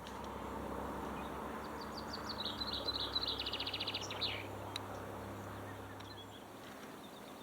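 A songbird singing a quick twittering phrase that ends in a rapid, even trill, over a steady low engine hum that fades away about six and a half seconds in.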